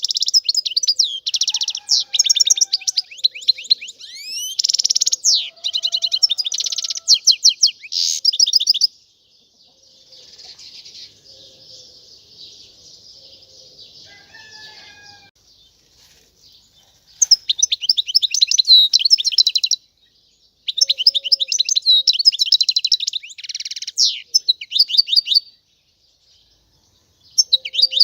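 European goldfinch singing in bursts of rapid, high twittering trills. In the middle the song drops to a soft, faint twitter for several seconds, then the loud song starts again.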